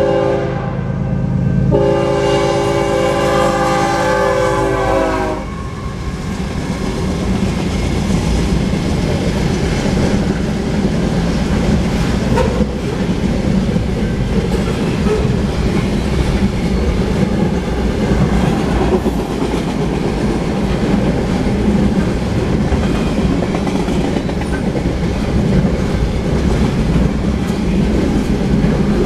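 The horn of a GE ES44C4 diesel locomotive leading a BNSF freight blows a chord, breaking off briefly about a second in and then sounding again for about three and a half seconds. After it stops, a double-stack container train rolls past with a steady rumble and clatter.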